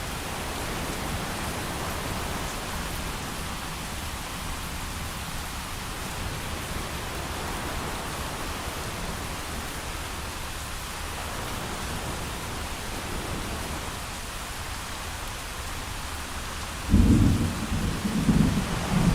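Steady heavy rain falling, then near the end a sudden loud clap of thunder that rumbles on in two or three low swells.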